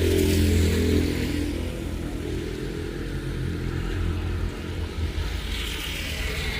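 A motor vehicle's engine running close by, loudest at first, then fading away over a few seconds as it passes, over a steady hiss of heavy rain.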